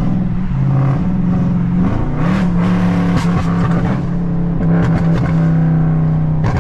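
Tuned Dodge Charger Scat Pack's 392 HEMI V8 running under way in traffic, its note rising about two seconds in as it picks up revs, then holding steady.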